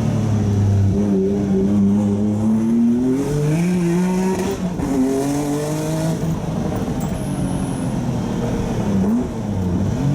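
Jaguar XJ220's twin-turbo V6 under hard acceleration, heard from inside the car. The engine note climbs and falls back sharply at two upshifts, about three and five seconds in, then runs steadier, with a brief dip and rise in revs near the end.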